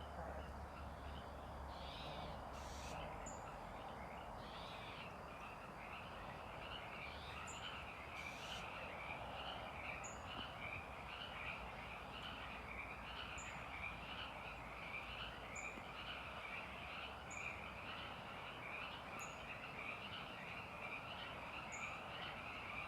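A steady, pulsing chorus of calling frogs, with a short high chirp repeating about every two seconds. A couple of brief hissing bursts, about three and eight seconds in, stand out over it.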